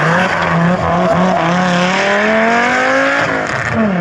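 Rally car engine under hard acceleration, its pitch climbing steadily through a gear, with a brief lift and a drop in pitch for an upshift about three seconds in. A few quick stutters in pitch come in the first second.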